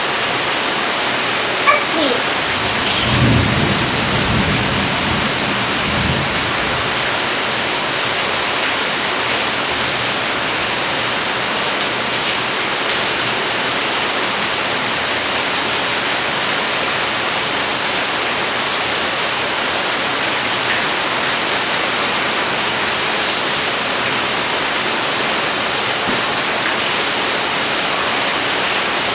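Heavy rain falling steadily, with a low rumble of thunder from about three to six seconds in and a single sharp click just before it.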